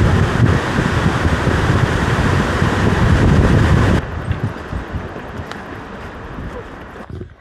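Wind buffeting the microphone, a loud, even rushing with a fluttering low rumble. About four seconds in it drops abruptly to a much quieter wind hiss.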